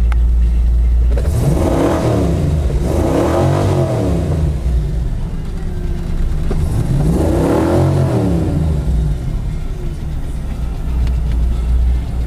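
The 5.7-litre Chevy V8 of a Rhino Buggies Blizzard 4x4 idling, then revved up and let fall back three times: twice in quick succession a little over a second in, and once more about seven seconds in.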